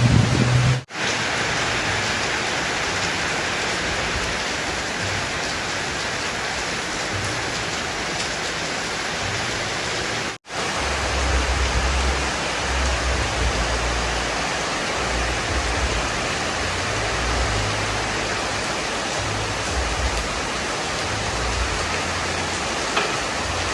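Heavy rain pouring steadily, a dense even hiss, with a low uneven rumble of wind on the microphone. The sound drops out for an instant twice, about a second in and about ten seconds in.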